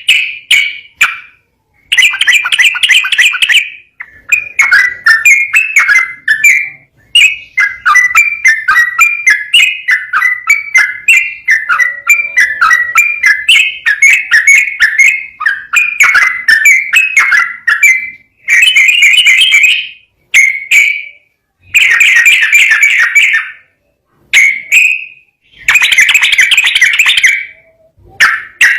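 Yellow-vented bulbul (trucukan) singing loud, rapid, bubbling phrases of chirping notes, each phrase lasting a second to several seconds, with brief pauses between them.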